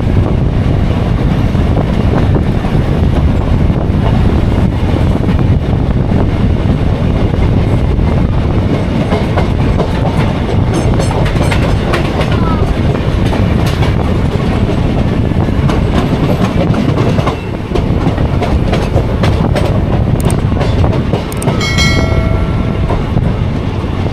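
Passenger express train running, heard from on board: a loud steady rumble of wheels on rail with clickety-clack over the rail joints. Near the end a train horn sounds once, for about a second.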